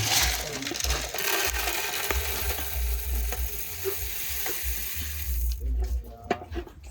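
Coffee beans being stirred in a hot pan as they roast, a steady scraping, rustling sizzle that stops about two-thirds of the way through.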